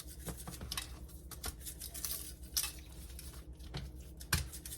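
Scattered light clicks, taps and rustles of kitchen handling as seasoned catfish pieces are set aside, with one sharper knock near the end, over a steady low hum.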